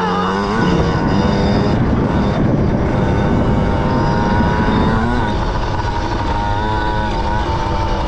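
Small off-road bike engine running after its motor was soaked in water. It revs up about half a second in and settles into a steady run about five seconds in.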